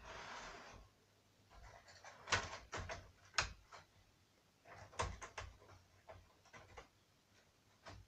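Model railway coaches being handled and re-railed by hand: a short rustle, then clusters of light clicks and knocks about two seconds in and again about five seconds in.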